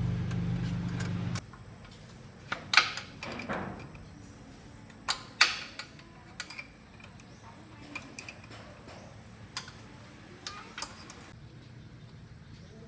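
A low, steady engine hum that cuts off suddenly about a second and a half in, followed by scattered sharp clicks and knocks, a dozen or so spread irregularly.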